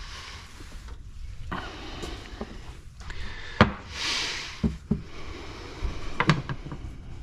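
Pressure washer pump parts being handled on a workbench: a few sharp clicks and knocks of parts set down and fitted, with short spells of scraping or rustling in between.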